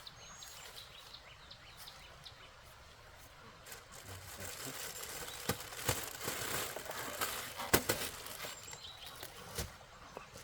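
Outdoor ambience with faint bird chirps. Partway through, a rustling noise rises with a few sharp knocks, the loudest a little past the middle.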